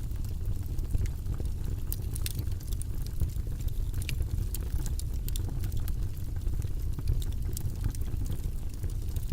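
Steady white-noise background track with most of its weight in a low, even rumble, sprinkled with faint scattered ticks and crackles.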